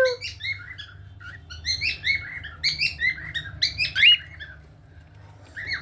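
Pet cockatiels chirping: a quick run of short, high chirps that stops about four seconds in.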